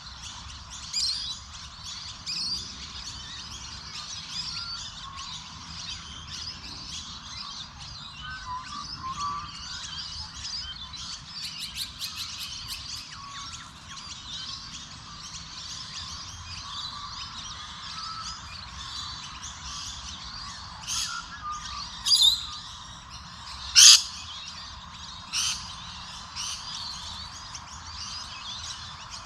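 Many birds chirping and singing together in a dense, continuous chorus, with a few louder, sharp calls about three-quarters of the way through.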